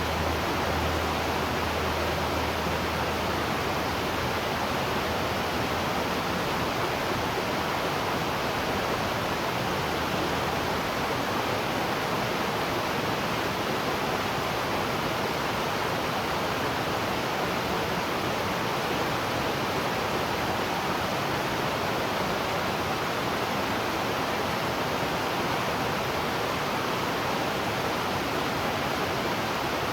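Waterfall: a steady, unbroken rush of falling water. A low hum fades out in the first few seconds.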